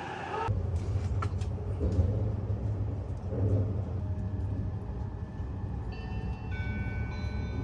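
Train running with a steady low rumble, with a few short high tones sounding near the end.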